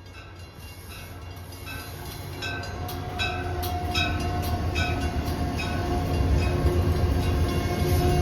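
An approaching train: a low rumble that grows steadily louder, with a bell ringing about twice a second and a steady humming tone setting in a couple of seconds in.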